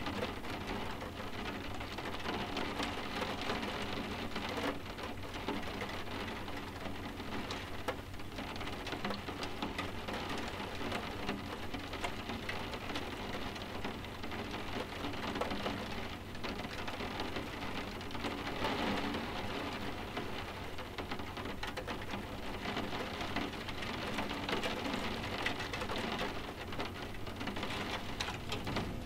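Soft, steady rain, with many small drop taps in a continuous hiss.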